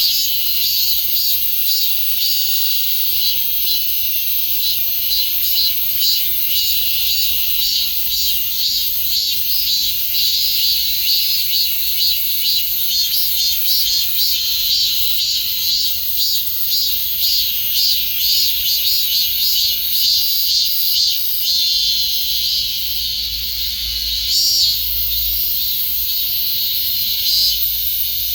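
Cicadas singing in chorus: a loud, continuous shrill buzz with a rapid pulsing beat.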